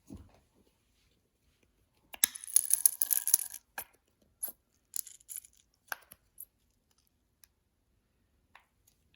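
Slime being squished and stretched by hand: a burst of sticky crackling and small pops about two seconds in, lasting just over a second, followed by a handful of short crackles over the next three seconds.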